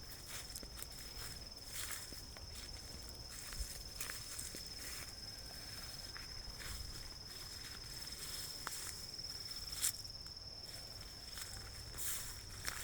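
An insect trilling in one steady high note, over scattered crackles and rustles, with a sharp click about three-quarters of the way through.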